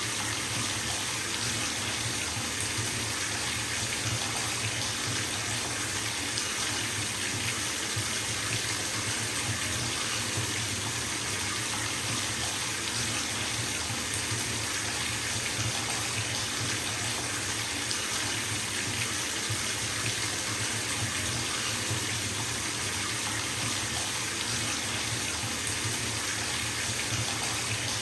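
Bathtub filling from a running tap: a steady rush of water splashing into the tub, unchanging throughout.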